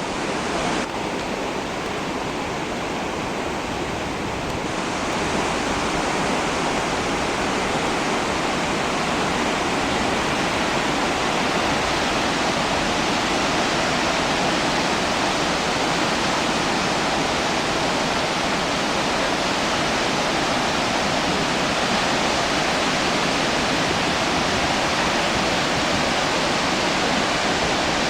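Steady rush of the Khone Phapheng Falls, the great cascades of the Mekong River, pouring over rock. It grows a little louder about five seconds in.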